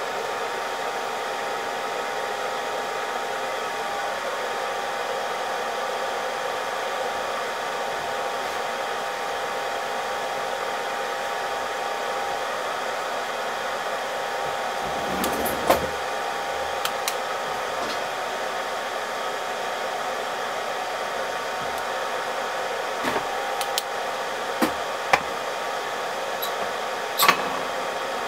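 Hot air gun blowing steadily, typical of heating a laptop's graphics chip for a reflow. A few light clicks of tools on the board come about halfway through and again near the end.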